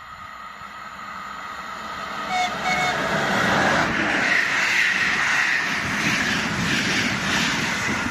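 ČD class 362 electric locomotive hauling a passenger express as it approaches and passes at speed. The train noise grows steadily, two short horn toots sound about two and a half seconds in, and then comes the loud rush of wheels on the rails as the locomotive and coaches go by.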